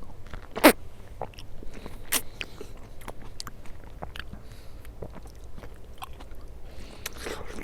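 A person biting and chewing fried chicken close to the microphone: scattered crisp crunches and mouth clicks, the loudest bite a little under a second in.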